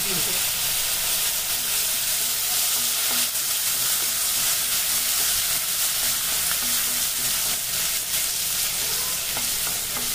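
Chopped onion and ginger-garlic paste frying in hot oil in a kadai while being stirred: a steady, even sizzle.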